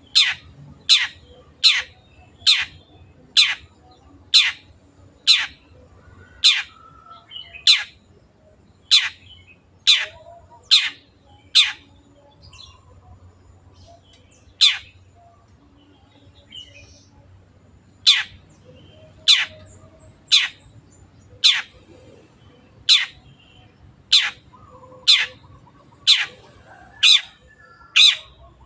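Long-tailed shrike (cendet) calling: a run of sharp, very short calls that each sweep steeply down in pitch, about one a second. There is a pause with a single call in the middle, then the steady series resumes.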